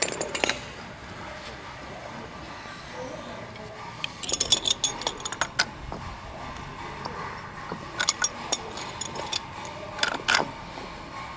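Small metal pipe fittings clinking and tapping as they are handled, in a few short clusters of sharp clicks separated by quieter stretches.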